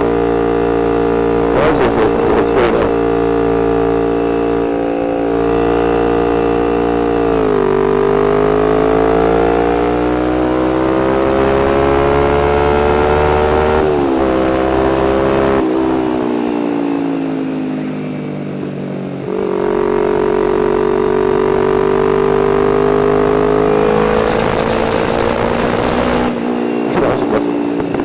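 Motorcycle engine running under way. Its pitch drops sharply about a quarter of the way in, then climbs gradually as it pulls; it drops again around halfway, goes quieter for a few seconds, then picks up and rises again.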